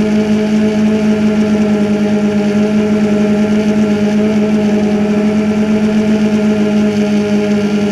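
A DJI Phantom 2 quadcopter's motors and propellers humming steadily in flight, heard loud and close with one even low pitch.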